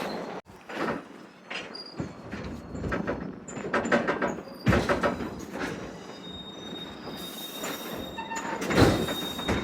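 Railroad car rolling on track, with irregular clanks and knocks and a thin, steady high squeal from the wheels in the second half.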